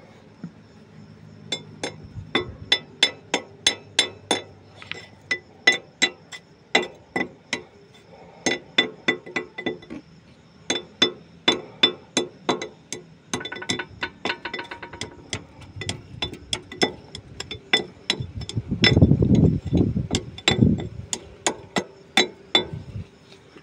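Metal being struck again and again, in runs of sharp ringing taps at about three or four a second, typical of tapping brake parts into place during a disc pad replacement. Near the end comes a louder, low rumbling scrape.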